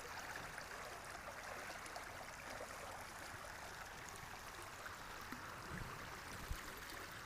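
Creek water running steadily, a faint even rush, with a couple of faint low knocks about six seconds in.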